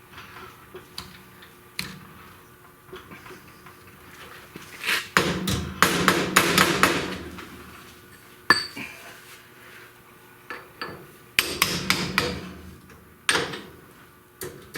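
Hand tools striking and working metal, a run of sharp metallic taps and knocks: a cotter pin being bent over on a cart wheel's spindle. The taps come in two dense clusters, about five seconds in and again near twelve seconds, with single knocks between.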